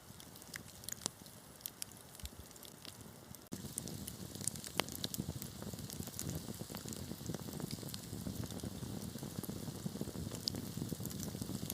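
Wood fire crackling: sharp snaps and pops scattered over a steady hiss. About three and a half seconds in, the sound abruptly becomes louder and denser.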